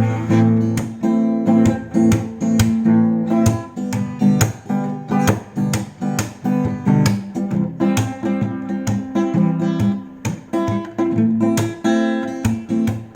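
Instrumental break of a folk-country song: an acoustic guitar strummed in a steady rhythm, about two strokes a second, with no singing.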